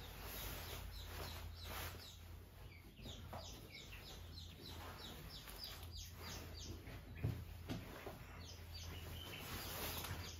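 Birds chirping faintly in many quick notes that fall in pitch, over a steady low hum, with a couple of soft thumps about seven seconds in.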